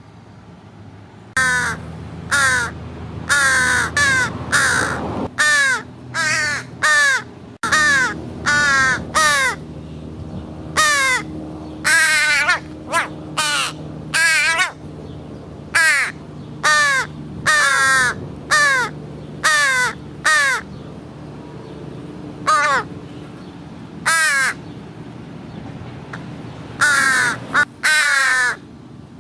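American crows cawing over and over, loud harsh caws in runs of two to five calls, over a low steady hum.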